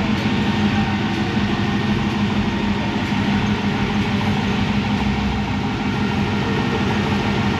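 Car engine idling steadily, a low even drone that doesn't rise or fall.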